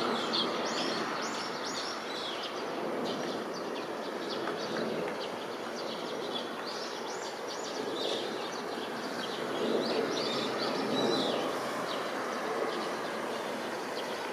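Small birds chirping in quick high bursts throughout, over a steady, even background rumble of outdoor noise.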